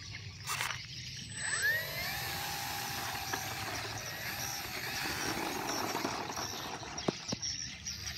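Extra 300S aerobatic plane's motor and propeller whining in flight. The pitch rises quickly about a second and a half in, then holds steady and high.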